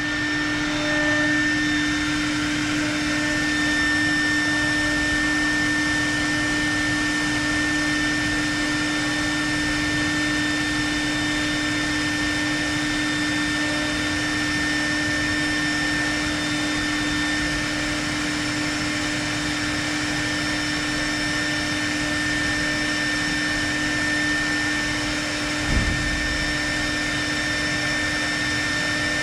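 Techno CNC Patriot router's spindle running at a steady speed while it cuts the workpiece under program control, a constant whine over a noisy hum. A single brief knock near the end.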